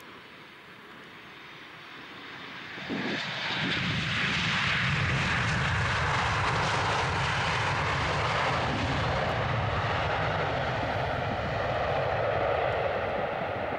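Jet engines of a Boeing 737-800 airliner on landing approach. The sound grows louder, jumps up sharply about three seconds in as the plane passes close, then stays loud and steady.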